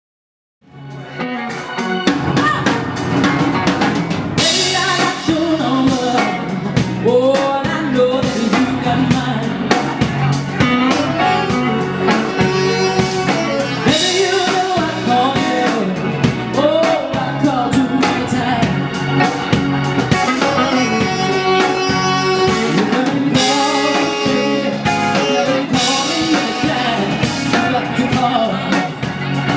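Live blues band playing: drum kit with rimshots and bass drum under a moving melody line, starting suddenly about half a second in.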